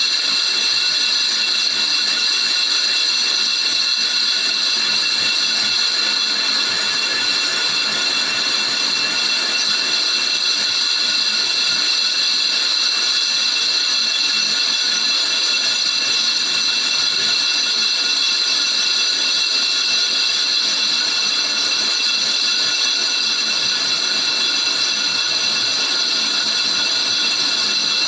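Suzuki APV brake disc being turned on a lathe, the cutting tool skimming its face with a steady, high-pitched ringing squeal that holds unchanged throughout.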